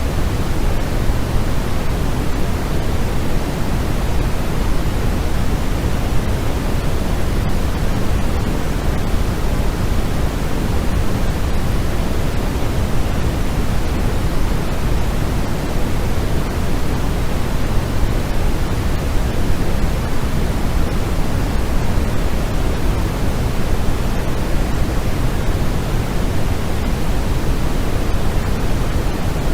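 Continuous steady noise, sold as white noise but weighted toward the low end: a deep, even hiss that does not change.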